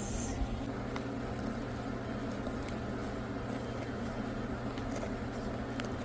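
Steady low hum with background hiss, broken by a few faint ticks.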